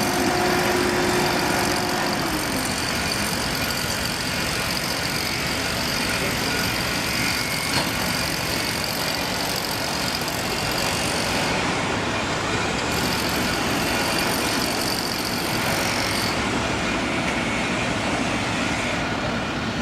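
Steady vehicle and engine noise, with a held mid-pitched tone over the first two seconds that then fades out.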